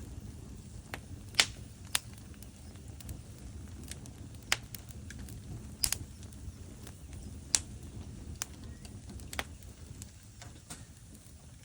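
Wood fire crackling in a fireplace: irregular sharp pops from the burning logs, every second or so, over a low steady rumble. The loudest pop comes about a second and a half in.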